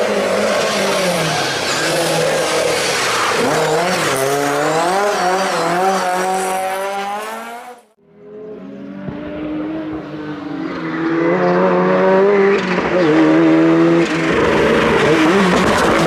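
Historic rally cars driven hard on a stage. The engine pitch climbs and drops through gear changes as the first car goes by. The sound cuts off about eight seconds in, and a second car comes in, growing loud toward the end.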